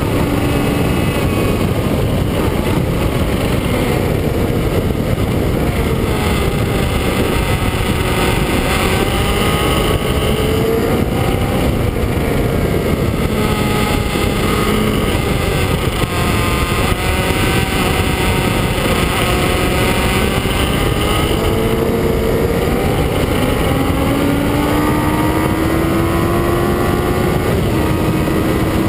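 Kawasaki ZX-9R's inline-four engine running hard at high revs, its pitch rising and falling with throttle and gear changes, climbing in steps near the end as it accelerates through the gears, under heavy wind rush on the front-mounted camera.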